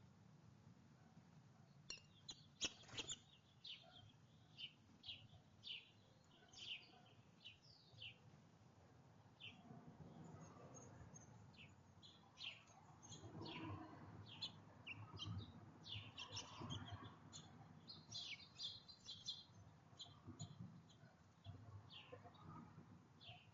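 Small songbirds giving many short, faint high chirps, starting about two seconds in and carrying on throughout, with one sharp tap near the start.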